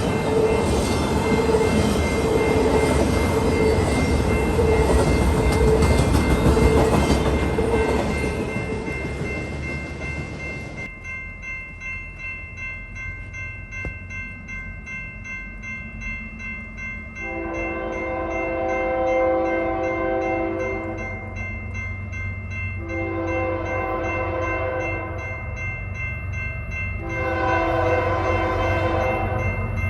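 A train passes with a dense rumble for about ten seconds, then the sound changes abruptly to a low steady hum. Over the hum a locomotive horn sounds a series of long chord blasts, the first starting about halfway through, with more following near the end.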